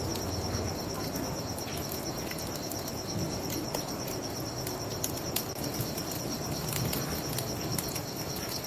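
Crickets chirping in a steady, fast-pulsing high trill, over the scattered pops and crackles of a wood bonfire and a steady rush of river water.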